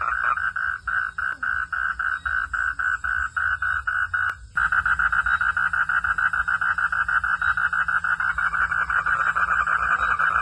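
Frogs calling in a steady, rapid pulsing chorus, about five pulses a second; it cuts out for a moment about halfway through and comes back as a denser, faster trill.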